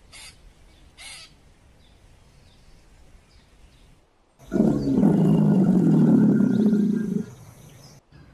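A large animal's loud, steady call lasting about three seconds, beginning about four seconds in and cutting off sharply. Two short harsh calls come near the start.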